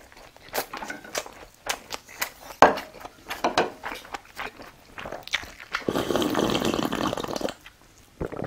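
Close-up chewing and crunching while eating, a run of sharp mouth clicks and crunches, with a denser stretch of crunching noise about six seconds in.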